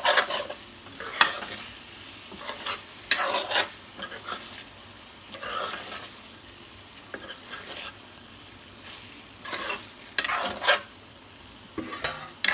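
A spatula scraping and stirring chicken liver and gizzard as they fry in a kadhai with ground spices, in irregular strokes every one to three seconds over a steady sizzle.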